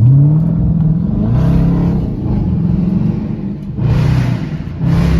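Dodge Charger R/T's V8 accelerating hard. The engine note climbs in pitch, drops back at the upshifts, and climbs again several times.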